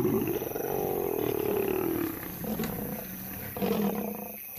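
Lions snarling and roaring in a fight, lionesses holding off a charging male lion. One long call falls in pitch over the first two seconds, and a shorter one comes near the end.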